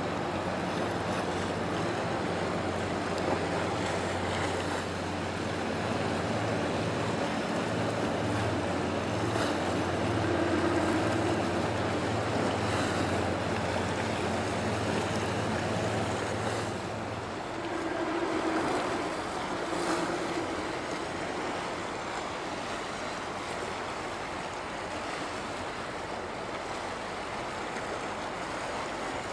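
Steady low drone of a passing ship's engine over a wash of water and wind noise; the drone stops about two-thirds of the way through.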